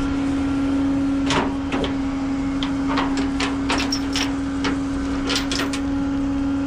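Irregular clicks and clanks of a tow truck's tie-down strap and its metal hardware being handled and straightened, over a steady mechanical hum.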